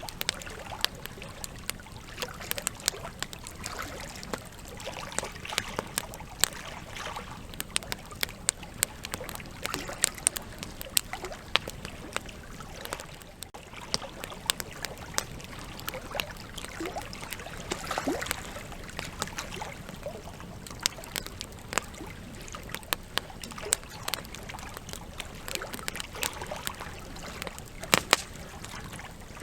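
Wood campfire burning, crackling with frequent irregular sharp pops over a steady low rush of flame, with a brief thin whistling near the middle.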